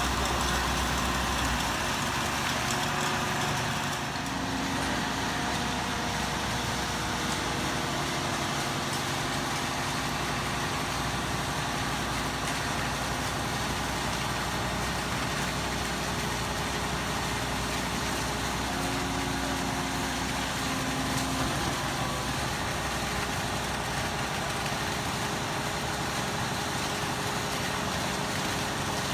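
Heavy diesel engine of construction equipment running steadily at a constant speed.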